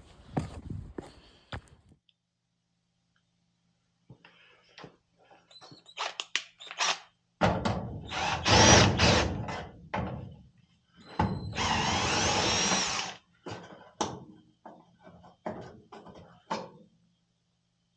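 Handheld power drill running in two bursts, the first about three seconds and the second about two, its motor pitch rising and falling. Knocks and clatter of tools are handled around it.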